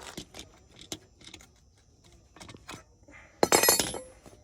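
Light scattered clicks and knocks of parts being handled, then, about three and a half seconds in, a loud half-second rattle of loose metal pieces clinking together.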